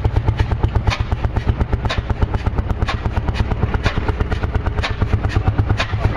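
Engine running steadily with an even, rapid beat of firing pulses, about six a second, and a sharper clack roughly every half second to a second.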